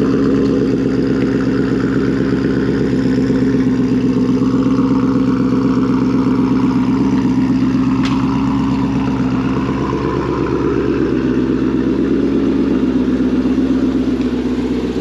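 2012 Shelby GT500 Super Snake's supercharged V8 running at a steady, loud, deep idle while the car is moved slowly. The note shifts slightly about ten seconds in.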